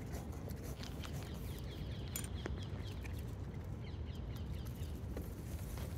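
A bird gives a quick run of short, falling chirps about two seconds in, over a steady low rumble and scattered soft clicks.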